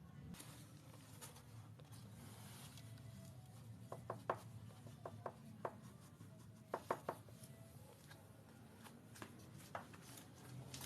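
Faint low hum with a cluster of short, sharp taps and clicks about four to seven seconds in, then a few scattered ones near the end.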